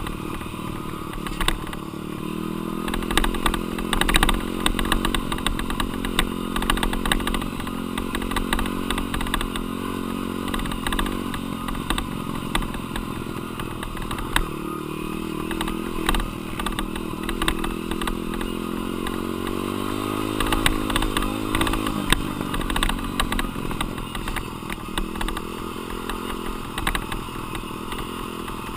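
Dirt bike engine being ridden hard, its pitch rising and falling over and over with the throttle and gear changes, with frequent sharp clicks and knocks throughout.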